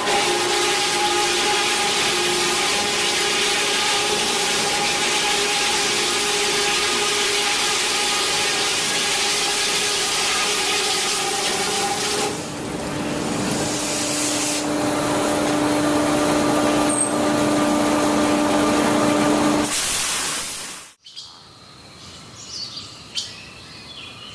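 Log debarking machine running steadily, a loud grinding noise with a steady whine over it; its pitch and sound shift about halfway through. It cuts off suddenly near the end, leaving faint bird chirps.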